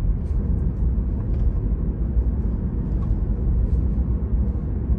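Road and tyre noise in a Tesla's cabin while driving: a steady low rumble, with a few faint clicks.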